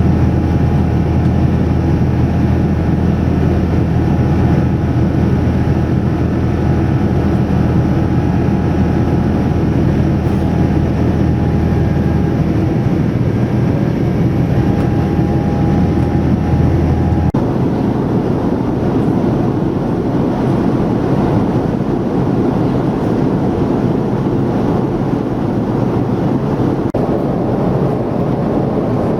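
Steady jet airliner cabin noise, a loud even rush of engine and airflow with a low hum and a few faint steady tones. Its character changes abruptly about 17 seconds in.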